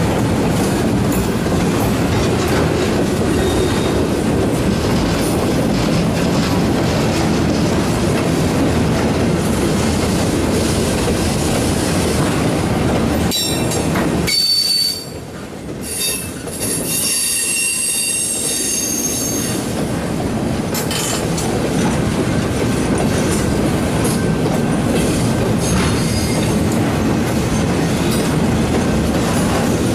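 Freight train flatcars rolling past close by: a steady rumble and clatter of steel wheels on rail. About halfway through the rumble briefly drops away and high wheel-flange squeal rings out for a few seconds before the rumble returns.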